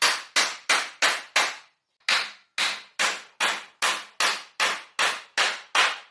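Hammer blows in a steady rhythm of about three strikes a second, with one short pause about two seconds in before the strikes resume.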